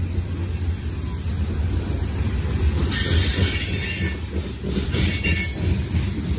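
Loaded coal hopper cars rolling past with a steady low rumble, and high-pitched wheel squeal flaring up about three seconds in and again around five seconds.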